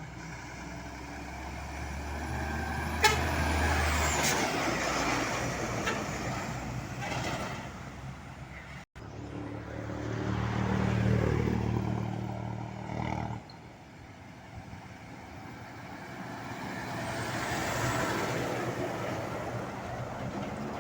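Heavy trucks passing on a road, their engine and tyre noise swelling and fading three times, with a sharp click about three seconds in. Low steady tones near the middle cut off suddenly.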